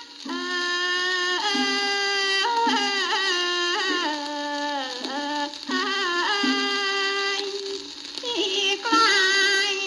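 A woman singing Thai classical vocal melody, long held notes with sliding, wavering ornaments, with a short break near the start and another around 8 s. It is heard from an old shellac 78 rpm record, with steady surface hiss.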